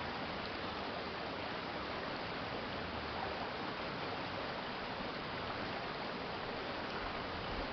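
Stream water flowing and splashing steadily: a city creek running over its bed.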